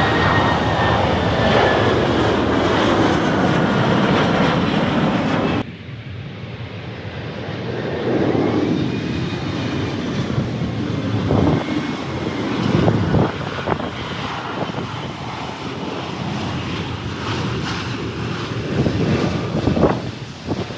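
Jet airliner engines of landing aircraft passing close by, a loud rush with a falling whine. The sound cuts abruptly about five seconds in to a second aircraft's engine noise, mixed with gusty wind on the microphone.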